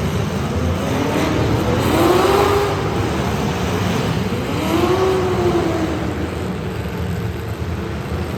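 Street stock race car engines running hard. The engine note rises and falls twice, about two seconds in and again about five seconds in.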